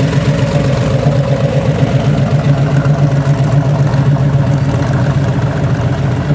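A vehicle engine idling close by, running steadily and loudly with an even low pulse.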